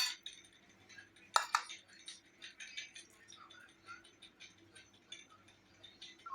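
Utensils clinking against dishes: a sharp clink at the start, a louder pair about a second and a half in, then small scattered taps and clicks.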